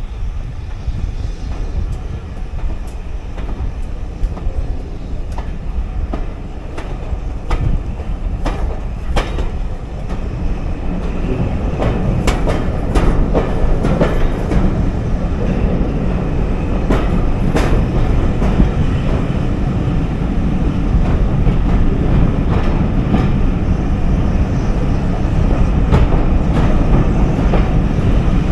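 Carriage of a steam-hauled passenger train running through a tunnel: a steady heavy rumble of wheels on rails, enclosed by the tunnel walls. Sharp clacks of the wheels over rail joints come through, most between about seven and eighteen seconds in, and the rumble grows louder after about ten seconds.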